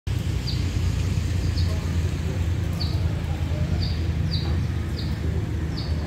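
A bird's short, high chirps, each gliding downward, repeating roughly once a second over a steady low rumble.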